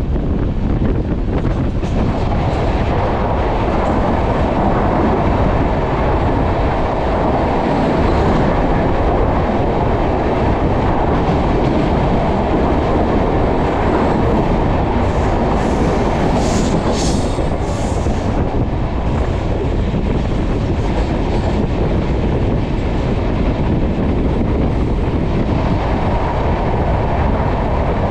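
Indian Railways long-distance express train running at speed, heard from aboard: a loud, steady rumble of wheels on rails. About halfway through come a few brief high-pitched squeals.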